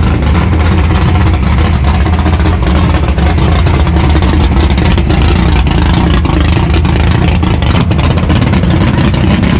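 A car engine running, loud and steady, with a strong deep low tone.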